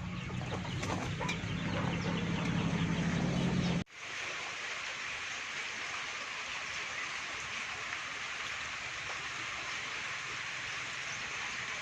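Free-range chickens clucking over a steady low hum; after an abrupt cut about four seconds in, a steady even hiss takes over with no clucks.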